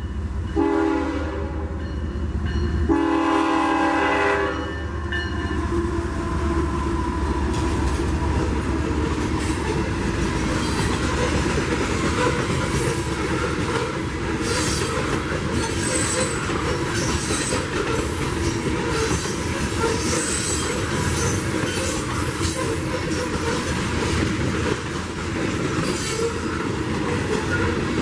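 CSX locomotive horn blowing a short blast and then a longer one, followed by the steady rumble of the train rolling past, with wheel clicks over the rail joints and high-pitched wheel squeal in the second half.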